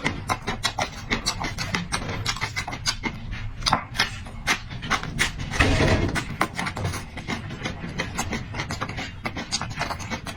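Close-miked chewing and mouth noises of someone eating: rapid wet clicks and smacks a few times a second, with one longer, louder noisy stretch a little over halfway through.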